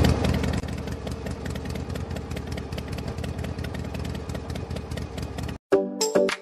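A small engine running with a fast, even chug, a little quieter after the first half-second, then cut off suddenly near the end. Brief music with plucked notes follows.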